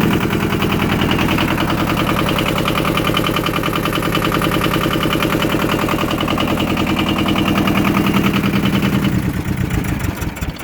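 Yanmar YM2000 compact tractor's diesel engine running steadily with an even clatter, dying down near the end.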